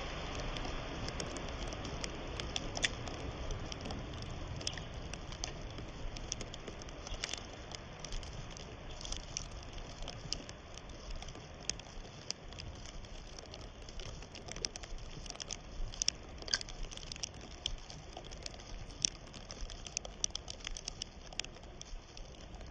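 Shallow river water trickling, with a low steady rush and many small irregular crackling ticks.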